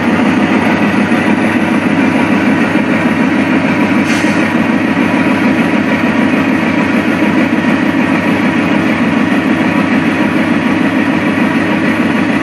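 Diesel locomotive engine running steadily, a heavy, even rumble.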